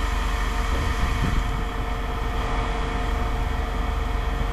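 A steady low mechanical drone with a constant hum, like a running engine or machine, holding even throughout.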